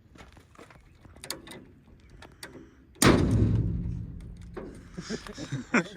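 A few light clicks and knocks, then a single heavy slam about three seconds in that rings and fades away over a second or so.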